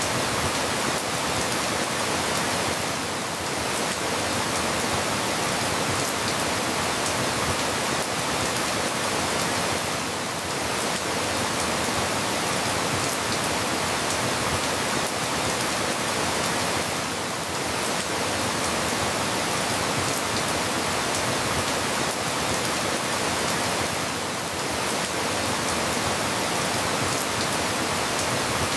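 Steady rain falling, an even hiss with no single drops standing out, dipping slightly in loudness about every seven seconds.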